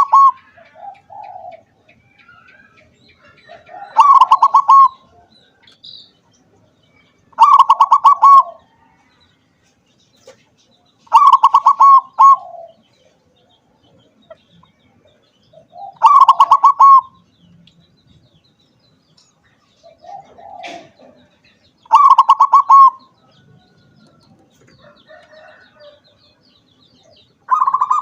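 Crossbred zebra dove (perkutut) cooing: short, fast-pulsed phrases of about a second each, repeated about every four seconds. A different, steadier pulsing call starts just before the end.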